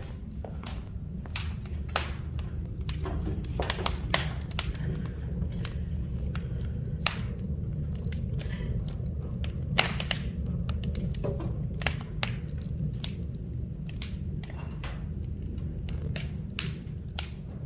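Firewood burning in an open wood fire: irregular sharp pops and crackles over a low steady rumble.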